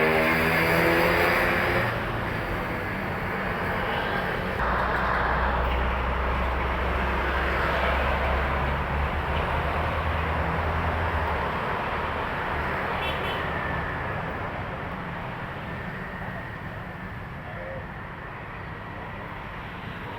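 Heavy trucks passing close by on a highway: dense tyre and engine noise, with a deep engine drone from about five to eleven seconds in. The traffic noise eases off toward the end.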